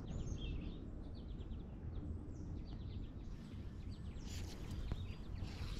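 Small birds chirping, a scatter of quick falling call notes, over a low steady outdoor rumble.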